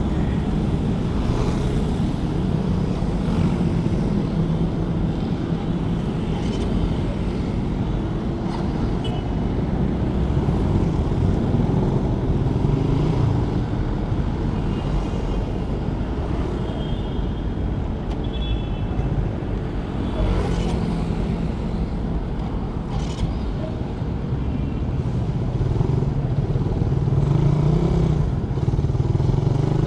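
Suzuki Raider 150 carbureted single-cylinder four-stroke motorcycle engine running steadily while the bike is ridden, its pitch rising and falling in places as the rider works the throttle and gears.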